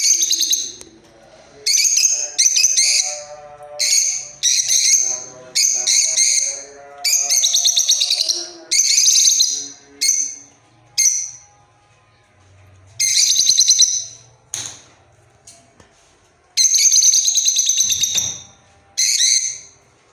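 A bird giving loud, high, rapidly trilled calls over and over, each lasting half a second to a second and a half with short pauses between, and fainter lower whistled notes beneath some of them.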